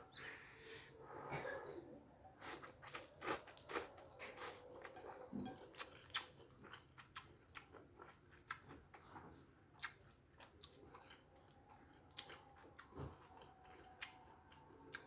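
A person chewing a mouthful of noodles close to the microphone: quiet, wet chewing with many short smacks and clicks.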